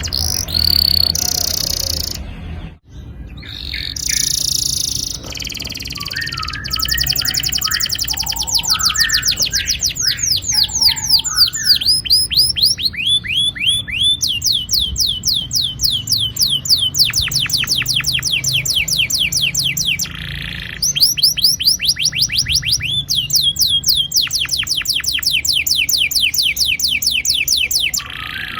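Domestic canary singing long rolling trills: fast runs of repeated high, downward-sweeping notes, with a short break about three seconds in and another near twenty seconds.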